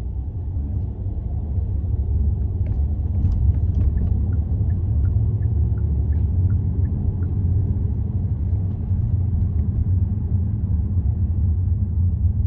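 Car driving on a road, a steady low rumble of road and engine noise that builds over the first couple of seconds. A few faint clicks and short high tones come through in the middle.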